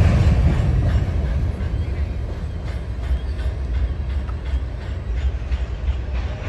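Norfolk Southern freight train rolling past close by: a steady, loud low rumble of the passing cars, with faint repeating wheel clicks over the rail joints coming in after a couple of seconds.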